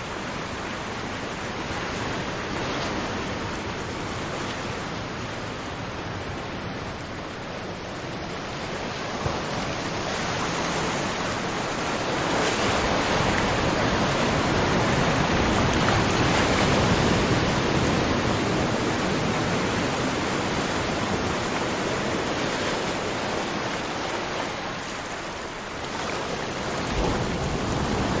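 Ocean surf: a continuous wash of breaking waves that swells to its loudest around the middle, eases off about three-quarters of the way in, then builds again near the end.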